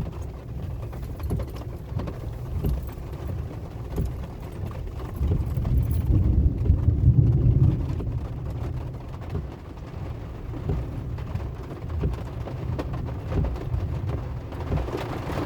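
A car driving in rain, heard from inside: a low road and engine rumble with scattered raindrops ticking on the car, swelling louder about six to eight seconds in.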